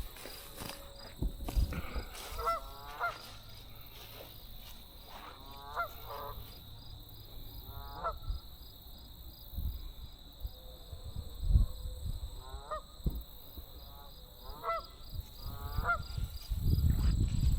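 Geese honking from across the water: short, nasal calls in bursts of a few at a time, every couple of seconds. Occasional low thumps, the loudest about two-thirds of the way through and a cluster near the end.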